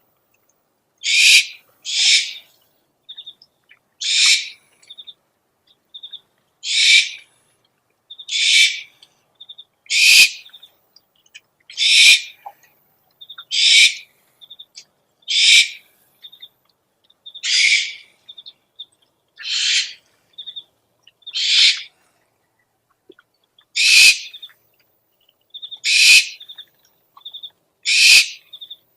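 An owl giving short, raspy hissing screeches about every two seconds, with soft rapid clicking between them.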